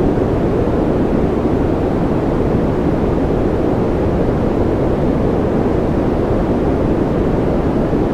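A continuous generated noise track for sleep, labelled white noise: an even, unchanging rush, deep rather than hissy, with no breaks or changes.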